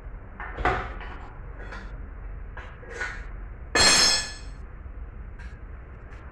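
Metal tools and engine parts knocking and clanking during an engine teardown: a few scattered knocks, and one loud ringing metal clank about four seconds in.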